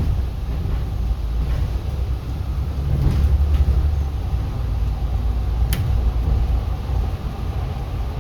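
City bus cabin while driving: a steady low rumble of the bus and road, swelling a little about three seconds in, with one sharp click near the end.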